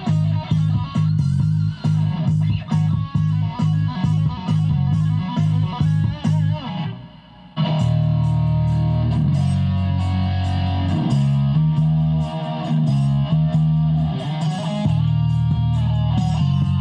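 Guitar-and-bass music, a backing track played from a phone through the Donner DBA-30 bass amp's auxiliary input, with a steady rhythm of plucked notes over a strong bass line. The music breaks off briefly about seven seconds in and comes back with longer held bass notes.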